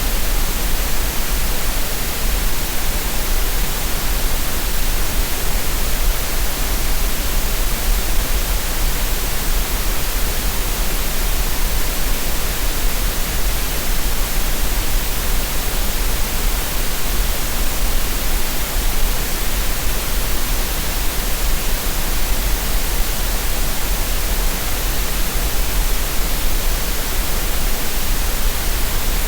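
Synthetic green noise: a steady, unchanging hiss with no events or rhythm, used as a relaxation and tinnitus-masking sound.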